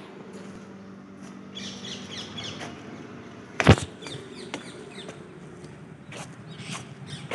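Birds chirping in short quick bursts, with one loud sharp knock about three and a half seconds in and a few fainter clicks after it.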